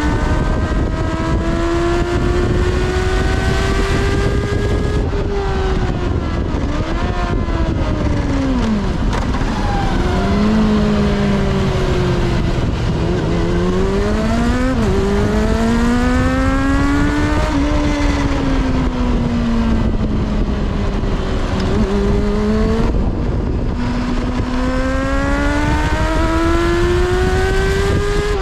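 Kawasaki ZXR400's 400 cc inline-four engine heard on board at speed over heavy wind rush. The revs climb, drop back with each upshift, and fall away under braking and downshifts before climbing again, several times over.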